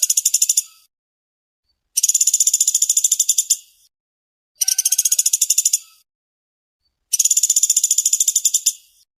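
Small woodpecker (pelatuk) calling in fast, tightly spaced rattling trills. There are three bursts of about a second and a half, each a rapid run of high notes, after the tail end of one burst at the start, with short silences between them.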